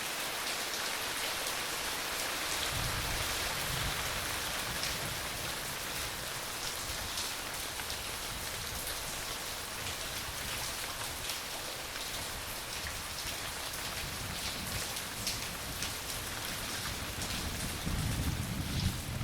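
Steady heavy rain falling, with low thunder rumbling from about three seconds in and swelling near the end.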